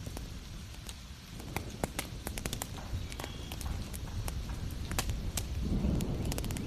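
Wood fire crackling, with irregular sharp pops and snaps over a steady rain hiss and a low rumble that swells near the end.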